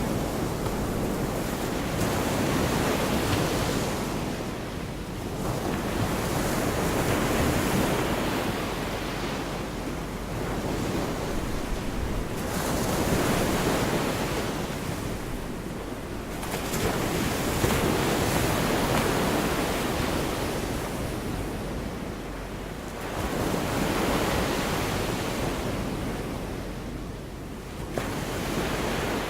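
Sea surf: small waves breaking and washing onto the shore, the rush swelling and easing every four to six seconds.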